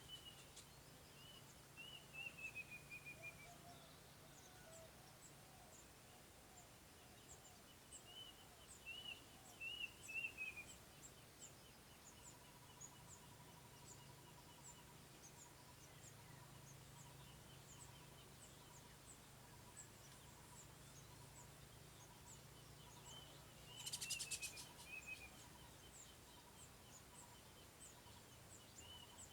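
Faint bird calls: runs of short whistled notes that slide downward, with thin high ticking calls between them. A brief crackling noise about three-quarters of the way through is the loudest thing.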